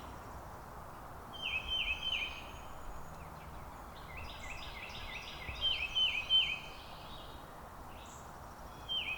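A songbird singing short series of quick, repeated down-slurred whistled notes, three phrases in all, over a steady low outdoor background hum.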